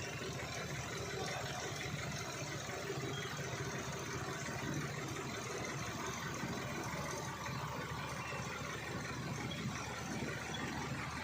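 Heavy truck engine running steadily at low revs, with an even hum and no sudden changes.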